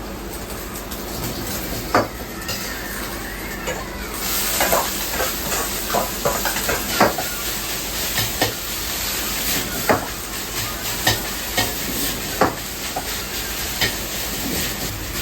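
Food sizzling in a hot pan as it is stirred, with frequent sharp knocks of a metal utensil against the pan. A louder hiss comes in about four seconds in.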